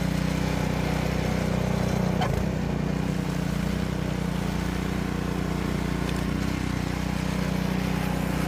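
Engine running steadily at a constant speed, with a brief knock about two seconds in.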